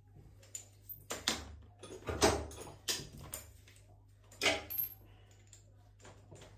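A series of irregular knocks and clatters, about six of them, the loudest about two seconds in, over a steady low hum.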